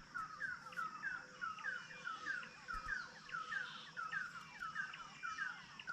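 Wild birdsong: a bird repeating a short, quick note about three times a second without a break, with other faint bird calls behind it.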